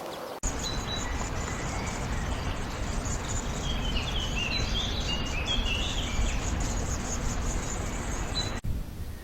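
Small birds chirping, with a burst of short, quick chirps in the middle, over a loud low rumble of outdoor noise and a steady high trill. The recording cuts in suddenly about half a second in and cuts out near the end.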